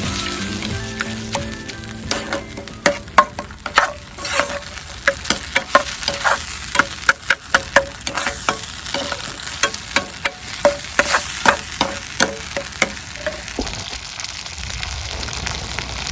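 Food sizzling hard in a pan over a campfire, stir-fried with a metal spatula or ladle that strikes the pan with ringing clinks about twice a second for most of the stretch. The clinking stops a few seconds before the end and the sizzle thins.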